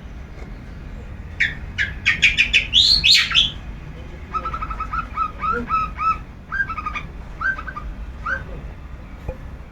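Long-tailed shrike (cendet) singing: a loud run of sharp notes starting about a second in, then a longer series of quicker, softer chattering phrases.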